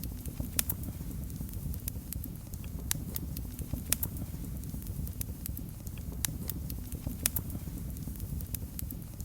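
Fire crackling in a fireplace: irregular sharp pops and snaps, a few louder than the rest, over a low steady rumble of the flames.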